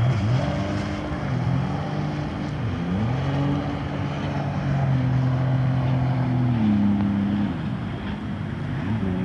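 Racing powerboat engines droning, several at once, their pitch sliding down and back up as boats pass and holding steady for a couple of seconds in the middle.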